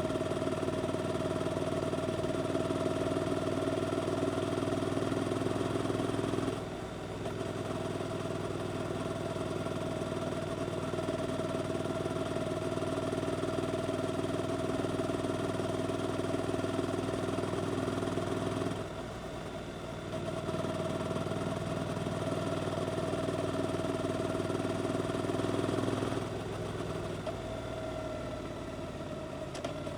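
Suzuki GSX-8S 776 cc parallel-twin engine with an aftermarket Arrow exhaust, running at fairly steady revs under way. The sound dips briefly twice, about a third and about two-thirds of the way through, and settles quieter near the end.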